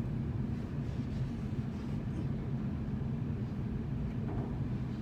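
Steady low drone of running machinery, holding an even level throughout.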